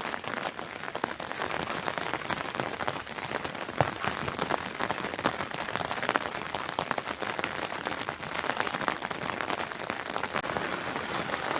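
Steady rain falling and pattering with dense, irregular drops, without a break.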